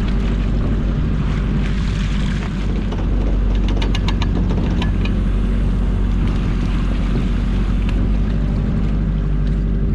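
Boat engine running steadily, with a short run of sharp clicks about four seconds in.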